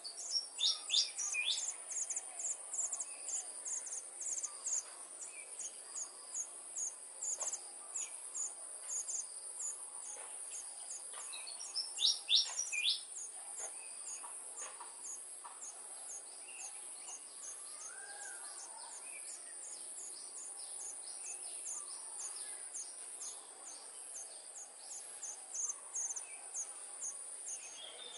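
A steady high insect chorus with a regular chirp about twice a second, and a few short bird chirps about a second in and again about halfway.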